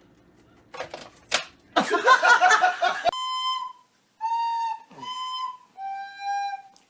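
A brief noisy clatter about two seconds in, then a flute-like wind instrument or whistle playing four separate held notes, each about half a second long, stepping down in pitch.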